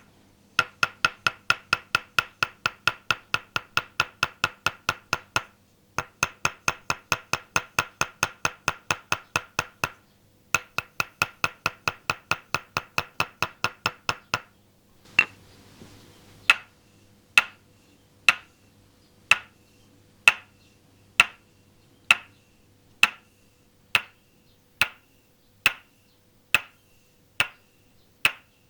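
Toksen massage: a wooden mallet knocking on a wooden peg held against the body. First come fast, even runs of taps, several a second, broken by short pauses. After a brief rustle about halfway through, it changes to slower single knocks about one a second.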